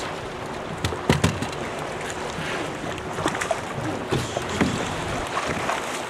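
Strong wind rushing over the microphone, with lake water sloshing and splashing and scattered short knocks and clicks.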